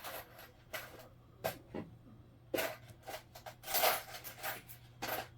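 Scattered light clicks and short rustles of coins and paper being handled, irregularly spaced, over a faint steady low hum.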